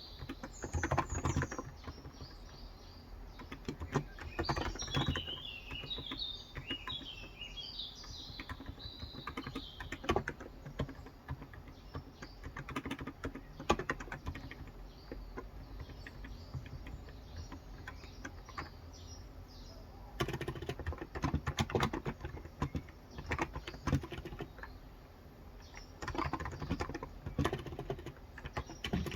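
Typing on a Cox Endeavour electro-capacitive (Topre-style) keyboard with 35g switches: bursts of fast keystrokes broken by short pauses. Birds chirp in the background, most during the first ten seconds.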